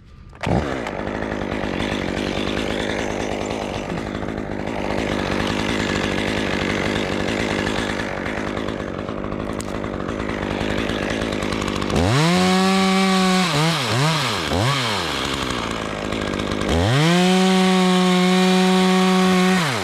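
Chainsaw idling, then revved to full throttle about twelve seconds in; the revs dip and rise twice, then it is held wide open for about three seconds before dropping back to idle near the end.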